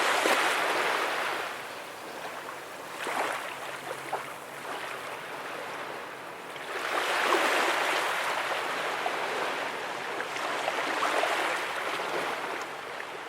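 Small ocean waves breaking and washing up the beach, the sound surging and ebbing every few seconds, the largest swell about seven seconds in.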